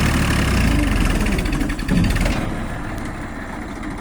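Tractor engine running steadily, a low drone that eases off slightly in the second half.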